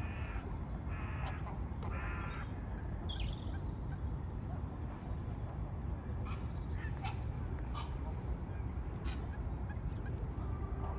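Harsh bird calls at a waterside heronry: three rough calls about a second apart at the start, then scattered shorter calls, over a steady low rumble.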